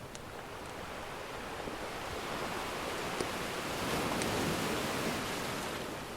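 Ocean surf: a wave swells, breaks loudest about two-thirds of the way through, then eases off as it washes back. A few faint crackles from a wood fire tick over it.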